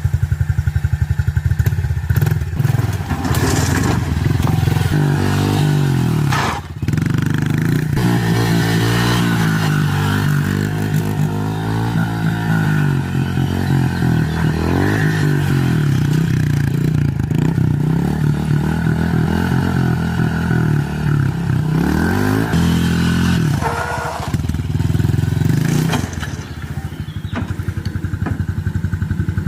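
Motorcycle engine running, its pitch rising and falling over and over as it revs and eases off, with a brief drop about seven seconds in.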